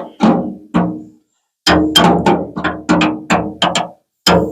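Hammer blows on a tool wedged up inside the 1950 Ford F1's crash-damaged front fender, knocking the pushed-in sheet metal back: a quick run of ringing metallic strikes, about three a second, with a short pause about a second in.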